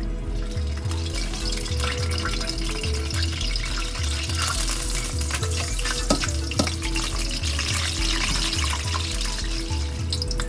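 Papadam frying in hot oil in a stainless steel pan: a dense crackling sizzle that starts about half a second in and grows busier from about four seconds, with two sharp clicks about six seconds in. Background music with a steady bass beat plays under it.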